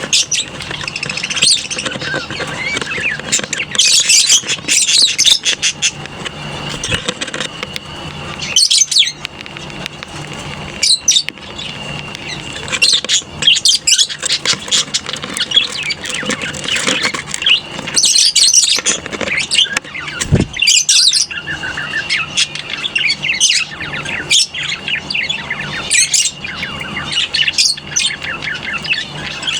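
A colony of lovebirds chattering, with many shrill overlapping chirps and squawks.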